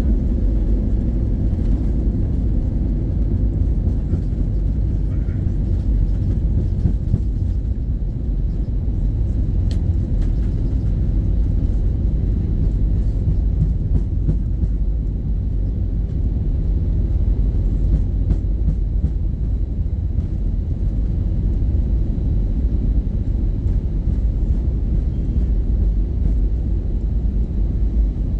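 Steady low rumble inside the cabin of an Airbus A320-232 taxiing after landing: the V2500 engines run at idle while the wheels roll along the taxiway.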